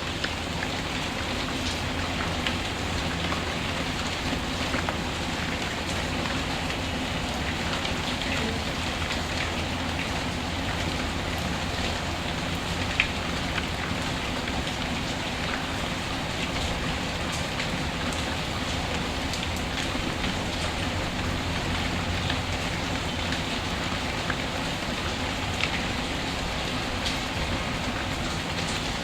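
Steady rain falling, with scattered small crackles and pops from a wood fire in a fireplace; one sharper pop a little before halfway.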